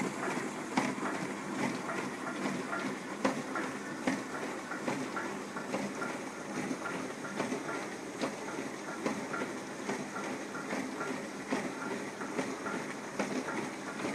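Household dishwasher running, a steady hiss with a repeating clicking, knocking rhythm.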